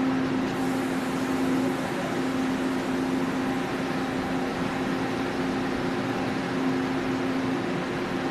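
Steady hum of a train standing at a station platform with its equipment running: a constant low tone over an even wash of noise.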